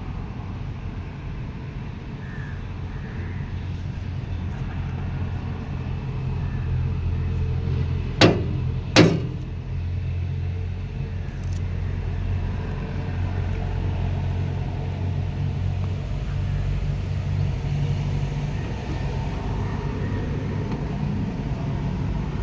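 Tractor's diesel engine running steadily with a low rumble, with two sharp loud knocks close together about eight and nine seconds in.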